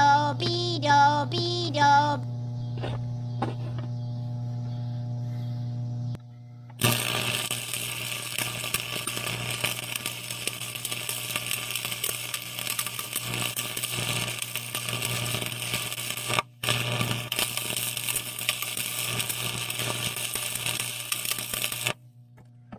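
A snatch of sung music, then a steady hum, then about fifteen seconds of harsh, even crackling hiss from metalwork on the cracked steel loader upright, breaking off briefly about two thirds of the way through.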